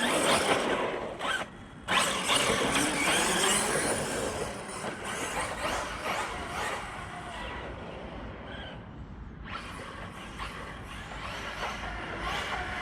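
Arrma Outcast 6S RC monster truck being driven hard, its electric motor whining up and down in pitch as it revs, with tyre and drivetrain noise. There is a brief lull about a second and a half in, and the sound grows fainter as the truck moves off.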